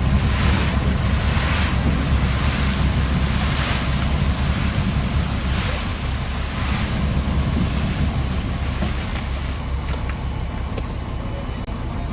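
A fishing trawler's engine runs with a steady low rumble while the sea rushes and splashes against the hull in surges about once a second over the first seven seconds, with wind buffeting the microphone.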